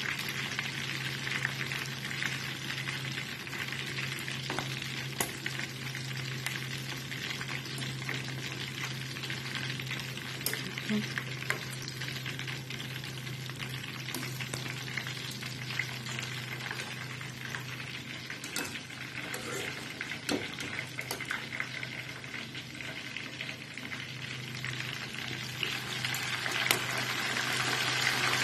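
Chicken pieces deep-frying in hot oil in a metal pan, a dense steady crackle and sizzle with occasional sharp clicks, growing louder near the end. A steady low hum runs underneath.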